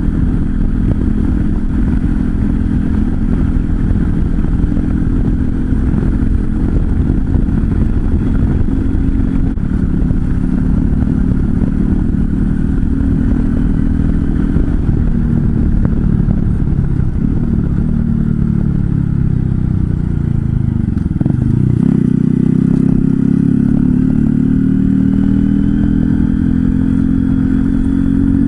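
Honda Cross Cub 110's single-cylinder four-stroke engine through a Moriwaki Short Monster full exhaust, heard while riding, with heavy wind noise on the microphone. The exhaust note holds steady, sinks in pitch over several seconds about two-thirds of the way through, then jumps back up and holds steady again.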